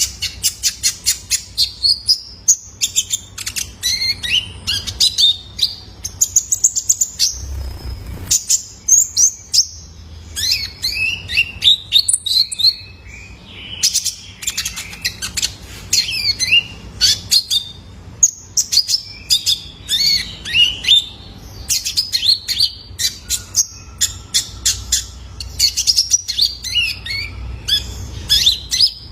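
Young male kolibri ninja sunbird (konin) singing: a dense run of rapid, high-pitched chirps, short twittering phrases and fast ticking note strings with hardly a pause.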